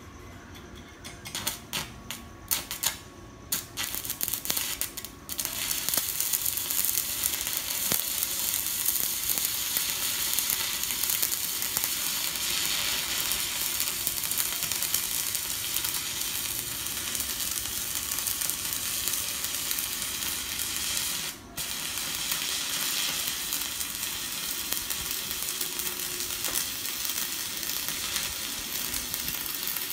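Stick (MMA) welding arc from a Kenmax ARC200I inverter welder burning a 2.5 mm electrode on a steel bar. A few sputtering strikes come in the first five seconds, then a steady crackling sizzle, broken briefly about 21 seconds in.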